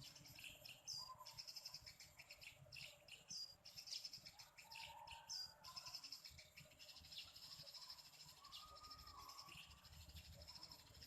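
Faint chirping of sparrows: many short, high chirps repeated, thickest in the first half.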